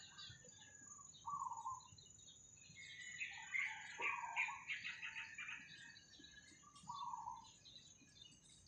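Birds calling in the open air: a short, lower call repeats about three times, and a dense run of high chirping comes in the middle. A steady high-pitched whine runs underneath.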